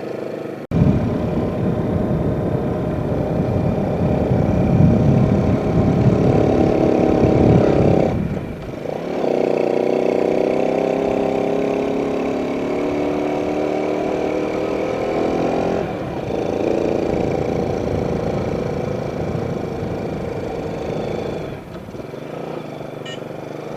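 Yamaha Jupiter Z's single-cylinder four-stroke engine accelerating while ridden, its pitch rising in stretches with three brief dips as it shifts up through the gears. It has a freshly re-tuned carburettor meant to stop its sputtering.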